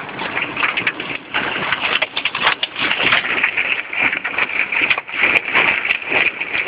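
Hail and heavy rain pelting a moving car's roof and windshield, heard from inside the car: a dense, uneven clatter of countless small hits.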